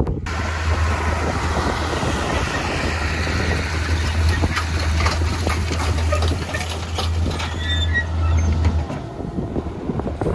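Tractor engine running steadily: a constant low hum over a noisy wash with scattered rattles and clicks. The hum drops away about a second before the end.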